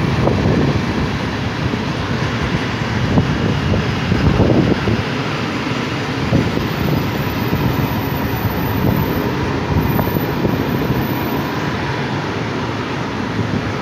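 Loaded coal gondola wagons of a freight train rolling past on steel rails: a steady rumble of wheels, with irregular clunks as they pass over the track.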